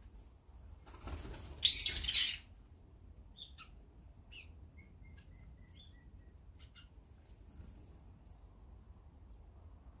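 A loud burst of bird wings flapping about a second in, with a harsh, loud bird call on top of it, followed by scattered short, high chirps from small birds.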